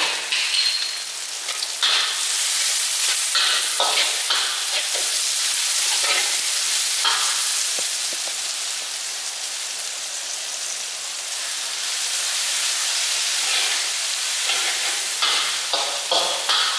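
Onions, garlic and chilies sizzling in hot oil in a wok, with a metal spatula scraping and clinking against the pan as they are stirred. The stirring pauses for a few seconds in the middle, leaving the steady sizzle, and picks up again near the end.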